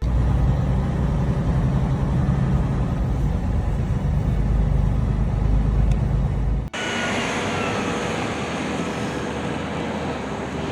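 Steady low rumble of a motor vehicle; about two-thirds of the way through it cuts off suddenly to a thinner, hissing noise.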